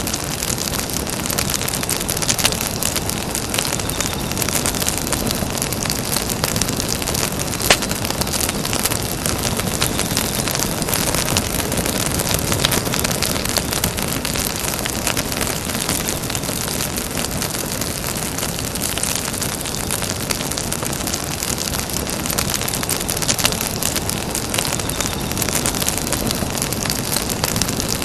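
Campfire burning: a steady crackle of many small snaps and pops over a dense hiss, with one louder pop about eight seconds in.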